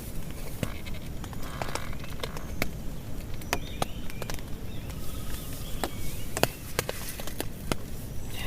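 Rain on a tent: separate drops tapping irregularly over a steady low rush of rain, with a few faint short chirps.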